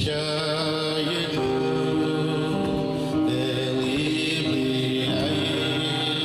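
Men singing a slow Jewish melody with long held notes, several voices sounding together.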